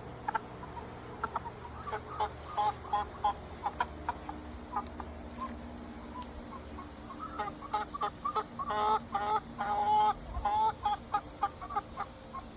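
Chickens clucking: many short, repeated clucks, busiest a couple of seconds in and again from about seven to eleven seconds.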